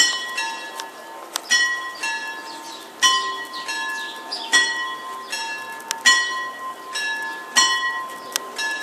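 Two FS type 64 level-crossing bells ringing the warning for an approaching train. There is a pair of strikes about every one and a half seconds, the second a little lower in pitch, and each rings on briefly.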